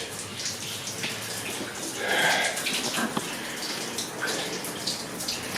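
Water from a hose pouring and splashing into a glass aquarium as it begins to fill, with a louder swell about two seconds in.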